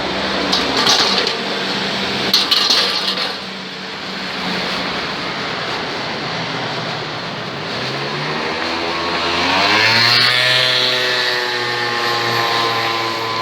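Street traffic noise, with two short hisses in the first few seconds. About eight seconds in, a vehicle engine revs up, rising in pitch, and then runs steadily.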